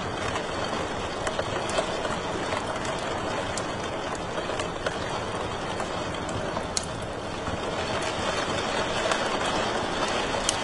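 Wood fire crackling in a fireplace: a steady rushing hiss with scattered sharp pops, a couple of them louder than the rest.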